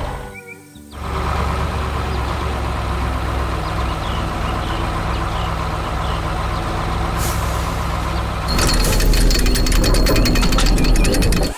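Heavy construction vehicle engine running steadily, with a brief drop-out just after the start. About 8.5 s in it grows louder and a rapid metallic clatter joins it.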